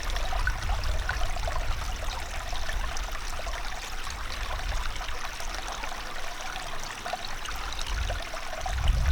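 Small stream flowing and trickling steadily, with a low rumble underneath that grows stronger near the end.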